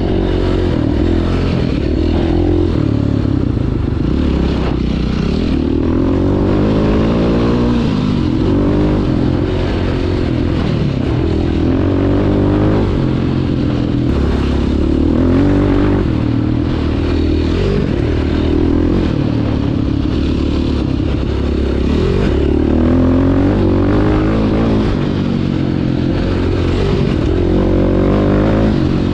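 Single-cylinder four-stroke engine of a KTM 530 EXC enduro dirt bike being ridden on a trail, revving up and dropping back again and again as the throttle is worked, its pitch rising and falling every second or two.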